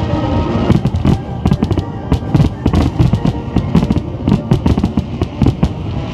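A fireworks barrage: a rapid run of sharp bangs and crackles, many per second, with music playing underneath.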